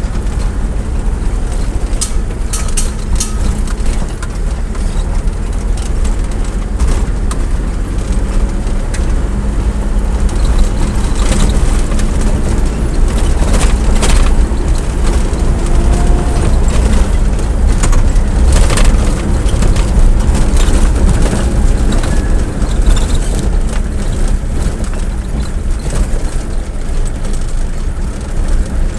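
Steady low rumble of a vehicle on the move, with scattered clicks and knocks.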